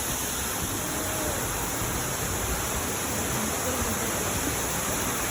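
Smith Falls, a spring-fed waterfall plunging into a narrow canyon, giving a steady, even rush of falling water.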